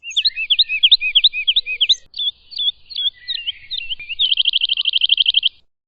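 Woodlark singing one song phrase: a quick run of repeated whistled notes, then a slower stretch, ending in a fast even trill.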